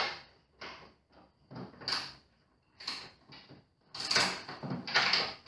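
Loose wooden table leg knocking and clunking in its joint as it is wobbled by hand. The clunks come irregularly at first and crowd together near the end. The bolts holding the leg have worked loose.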